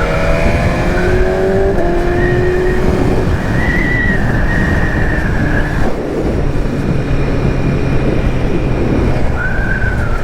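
BMW S1000RR inline-four engine running under way, its note rising as it pulls for the first few seconds, under heavy wind rush. A thin high whine comes and goes above it.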